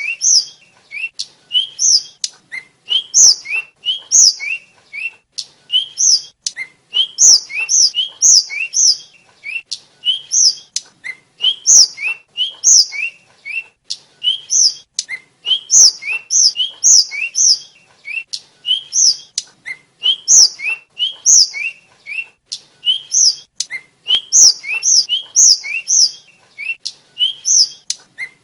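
Sikatan (tledekan) flycatcher singing: quick runs of short, high chirping notes repeated over and over, with brief pauses between phrases and a few faint clicks.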